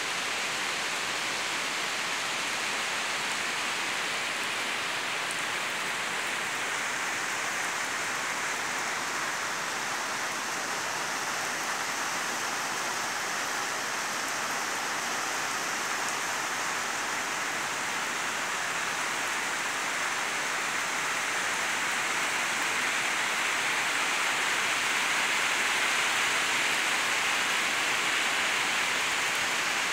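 Heavy rain pouring steadily onto a wet concrete yard and gravel, an even hiss that swells a little louder near the end.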